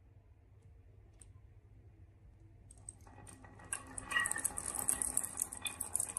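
Marbles rolling and clattering down a wooden HABA marble run. It starts faint, with a few scattered ticks. From about three seconds in it builds into a dense rattle of quick clicks.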